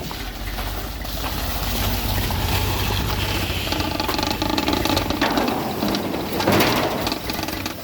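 1985 GMC K3500's 350 V8 with an Edelbrock carburetor idling steadily and smoothly, humming along without stumbling.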